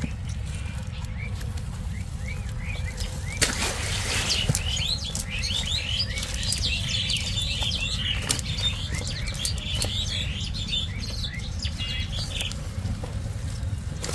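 Small birds chirping rapidly in a dense run of short calls that fade out near the end, over a steady low rumble and a few sharp knocks.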